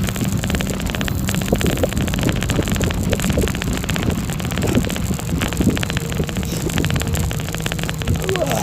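Wind buffeting the microphone over a steady low rumble, with fine rattling throughout.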